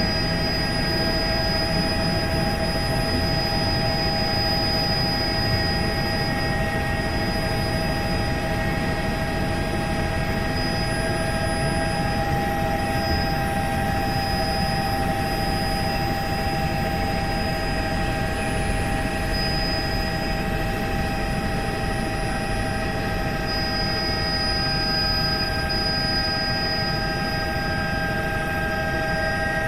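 Helicopter in flight, running steadily: a dense, constant rumble with several steady high whining tones over it.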